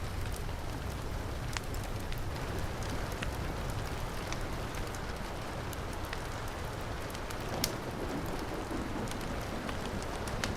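Heavy rain falling steadily, with scattered sharp crackles and pops from a wood fire; the loudest pop comes about seven and a half seconds in.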